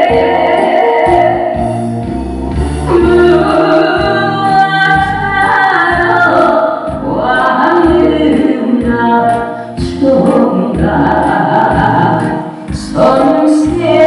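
A singer's held, gliding vocal lines over a backing track with a steady thumping beat.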